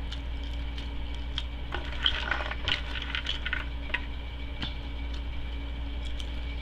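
Close-up eating sounds: popcorn being chewed, with scattered small crunches and mouth clicks that are busiest about two to three and a half seconds in, over a steady low hum.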